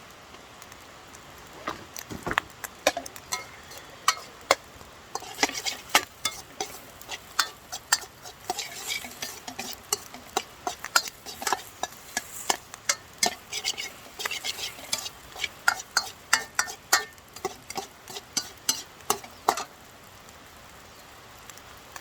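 Metal spatula clanking and scraping against a Chinese wok in quick, irregular strokes while rice is stir-fried, with food sizzling in the hot pan. The clanking stops a couple of seconds before the end.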